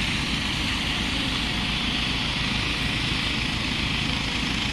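Medical helicopter sitting on the ground with its turbine running and rotor turning: a steady turbine hiss over a rapid, even rotor beat.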